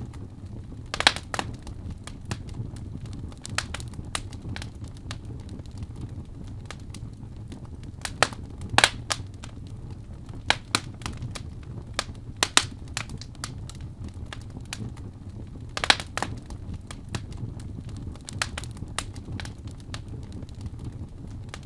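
Wood fire burning in a fireplace, crackling with irregular sharp pops over a low steady rumble of the flames; a few louder pops stand out about a second in, around the middle and again later.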